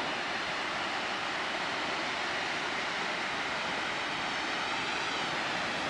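Namegawa Ōtaki waterfall: falling water rushing in a steady, even hiss that does not change.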